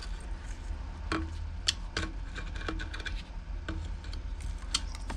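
Scattered light clicks and taps, about half a dozen, of a small tool and fuel line against a weed eater's plastic fuel tank as the fuel filter is fished out through the filler opening.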